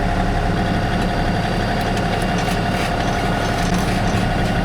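LS XR3140H tractor's diesel engine running steadily with a constant whine while the front-end loader is lowered onto its mounts.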